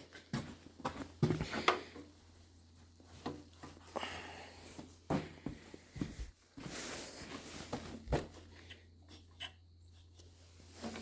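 Scattered knocks, clicks and rustles of handling in an enclosed room, over a faint steady low hum; no engine is running.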